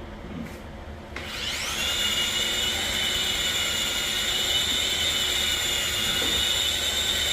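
Electric motor of a cordless vacuum-and-polisher cleaning machine switching on about a second in, its whine rising quickly in pitch as it spins up, then running steadily at a high pitch.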